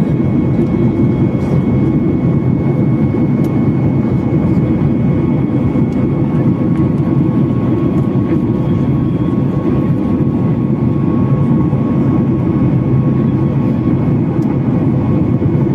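Jet airliner in flight heard from inside the passenger cabin: a steady, even rumble of engines and airflow, with faint steady whining tones over it.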